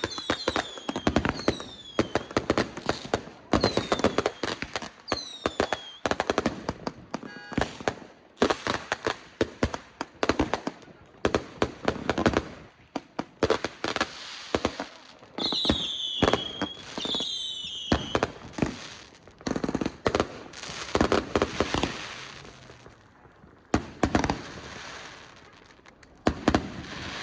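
Fireworks going off in quick succession: sharp bangs and crackling, with several whistling rockets whose whistles fall in pitch, the two loudest about halfway through. The bangs thin out for a moment past two-thirds of the way, then pick up again.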